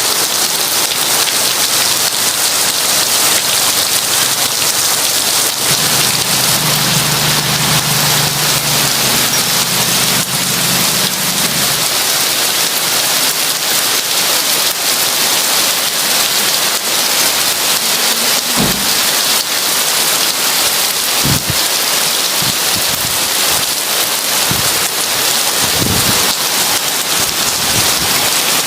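Heavy rain pouring steadily in an even hiss. A low rumble of thunder rolls from about six to twelve seconds in, and several shorter low thunder rumbles come in the second half.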